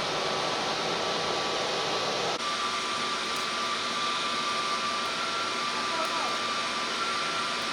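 Jet airliner engines running, a steady rush with a thin high whine on top; the sound changes abruptly a little over two seconds in.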